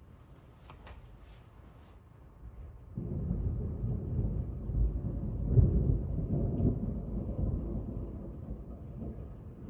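Thunder rumbling: a deep rolling rumble that sets in suddenly about three seconds in, is loudest around the middle, and slowly dies away.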